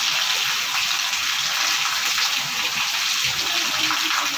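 Heavy rain falling steadily on a wet brick courtyard: an even hiss. It is the tail end of a hailstorm, and a few hailstones are still coming down.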